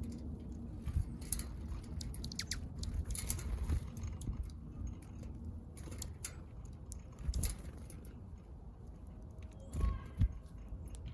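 Small backyard birds pecking at seed, a scatter of irregular light taps and clicks, with a few faint high chirps and a louder knock near the end.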